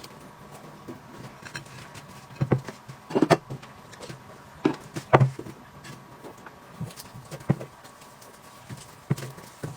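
Scattered light knocks, clicks and soft rustles of objects being handled and set down, a few sharper taps about two and a half, three, five and seven and a half seconds in, over a faint steady hum.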